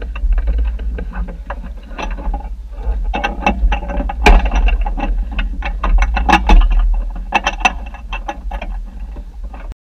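Rapid clicking and knocking of tools and plastic trim as a tractor cab's ceiling panel is worked loose, over a steady low rumble. The sound cuts off suddenly near the end.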